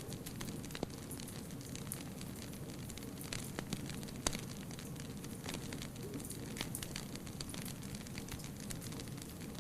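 Wood fire burning, with irregular crackles and pops over a steady low rumble of the flames; one pop a little under halfway in is louder than the rest.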